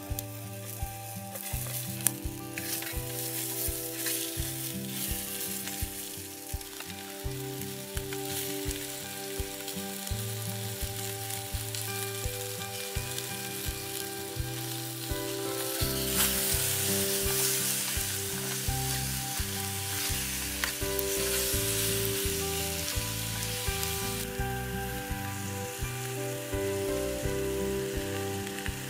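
Food sizzling and frying in a pan, a steady crackling hiss that grows louder a little past halfway and eases again a few seconds before the end, with a few sharp clicks.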